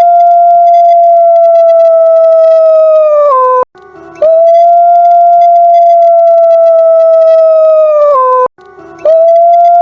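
Canine howling: long, steady howls of about four seconds each, each opening on a short low note, jumping up to a held pitch and dropping at the end. Two full howls, with a third starting near the end.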